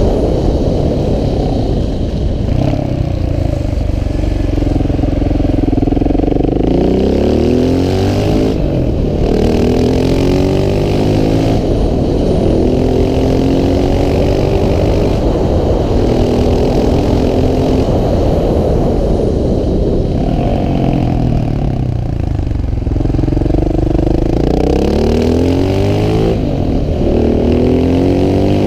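KTM 690 SMC R's single-cylinder engine pulling hard, its pitch rising through the gears and dropping back as it slows, over and over.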